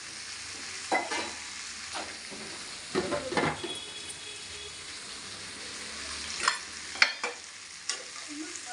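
Drumstick pieces frying in a kadai with a steady sizzle, broken by sharp clinks and knocks of steel utensils and containers: a cluster about three seconds in and a few single ones near the end.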